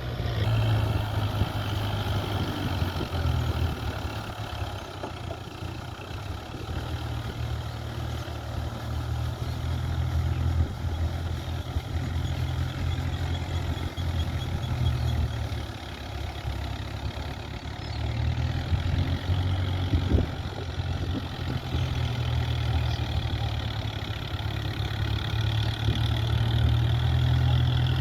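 Kubota tractor's diesel engine running, a steady low hum that fades somewhat twice and swells again, strongest near the end.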